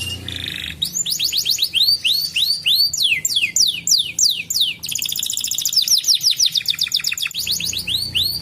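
Domestic canary singing: series of quick, high, down-slurred whistled notes repeated in rolls, with a faster, denser trill in the second half.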